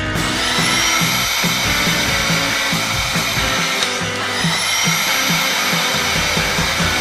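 A whirring, motor-like machine sound effect that spins up with a rising whine at the start and again about four seconds in, then holds steady, over background music with a repeating bass line.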